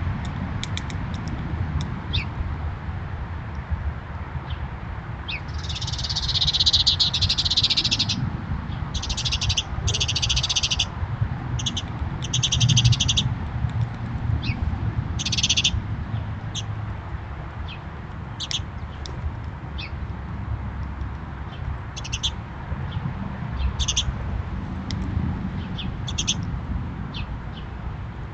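Birds calling in short bursts of rapid, high-pitched chatter with scattered single chirps, thickest through the middle stretch, over a steady low outdoor rumble.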